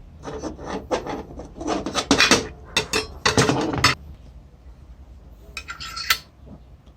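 Metal parts clinking and scraping against each other as they are handled, a rapid run of knocks and rubs over the first four seconds. A brief ringing scrape and a click follow about six seconds in.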